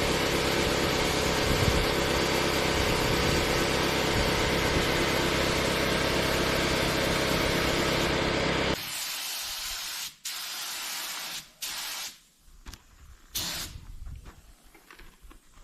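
Paint spraying: a steady motor drone with a hiss over it for most of the first nine seconds, which cuts off abruptly, followed by several short bursts of spray-gun hiss with gaps between them.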